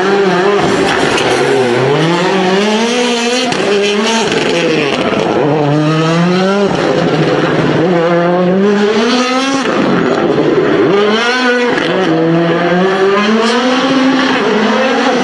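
Rally car engine accelerating hard, its pitch climbing and then dropping sharply at each quick gear change, over and over.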